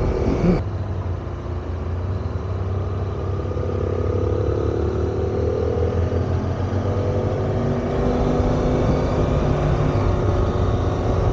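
Parallel-twin motorcycle engine running under way, its pitch rising slowly through the middle and shifting again near the end.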